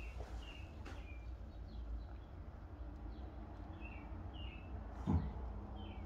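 A small songbird chirping, a series of short high chirps with gaps between them, over a low steady hum. A short low thump comes about five seconds in.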